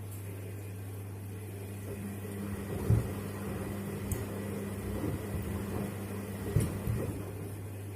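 Washing machine running with a steady hum. From about two seconds in the drum turns and shoes inside thump against it a few times, loudest about three seconds in and again near the end.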